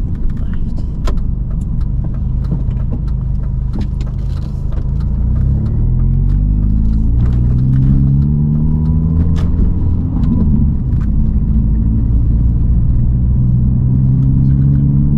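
Car engine heard from inside a Mini on the move. Its note rises as it accelerates from about six seconds in, drops with a gear change about ten seconds in, then holds steady. Light clicks and rattles from the car run throughout.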